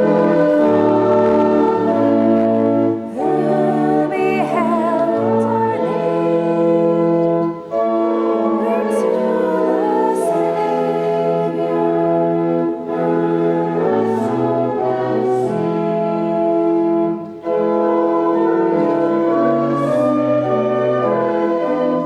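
Church organ playing slow, sustained chords that change every second or so, with a few voices singing along.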